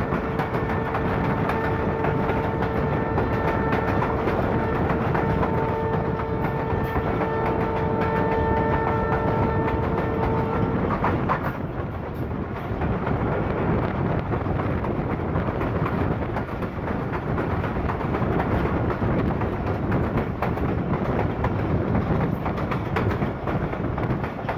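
Passenger train running fast, heard from an open coach door: a steady rumble and wheel clatter on the rails. Over it the locomotive's horn is held as one long steady note for about the first half, then cuts off suddenly.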